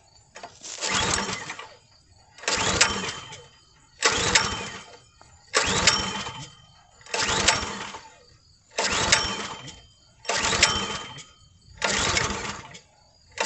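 Kohler 6.5 hp, 196 cc single-cylinder log splitter engine pull-started about eight times in steady succession, each pull a second-long burst of the engine turning over without catching. It is being cranked with the choke on and the fuel shut off to clear out a flooded carburetor.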